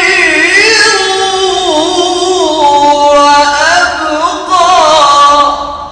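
A male reciter chanting the Quran in the melodic tajwid style, a high voice drawing out "khayrun" in long ornamented held notes, then singing "wa abqa", whose last note fades out just before the end.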